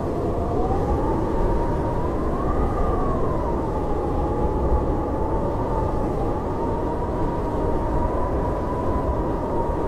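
Howling blizzard wind: a steady low rush with a thin whistling howl that slowly rises and falls in pitch.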